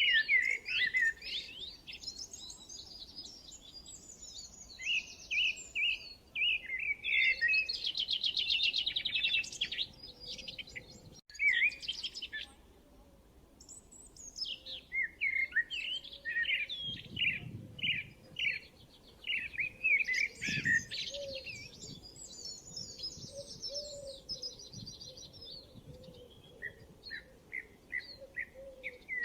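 Songbirds singing and chirping: quick chirps, twitters and fast buzzy trills, often several overlapping, with a lull of a couple of seconds near the middle.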